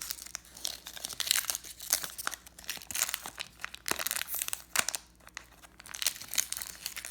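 Crinkling and tearing of a tightly sealed 1993 Topps baseball card pack's wrapper being worked open by hand, in a run of irregular crackles with a short lull about five seconds in.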